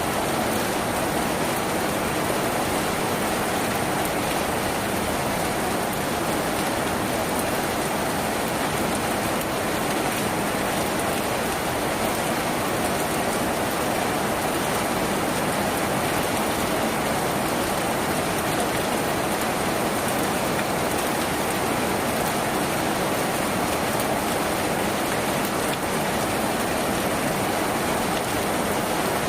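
Steady rain on a tin roof, an even, unbroken wash of drops that holds the same level throughout.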